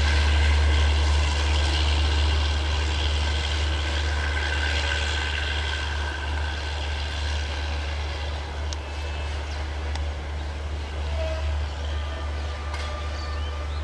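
A diesel-hauled passenger train pulling away: a steady deep drone with a haze of running noise above it, slowly fading as the train moves off.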